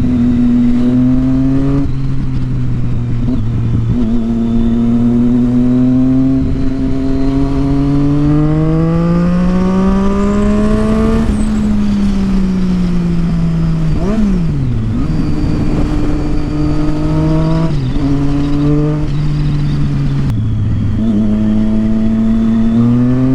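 Triumph Street Triple 675's inline-three engine through a Yoshimura aftermarket exhaust, heard on board while riding. It holds a steady note, climbs in pitch over a long pull, then eases off. About two-thirds of the way in there is a quick drop and rise, followed by further shifts, and the note rises again near the end.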